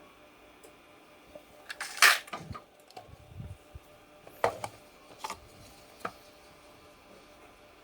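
Metal tool parts and hand tools being handled on a bench: a few sharp clinks and knocks, the loudest about two seconds in, with three more spread over the following four seconds.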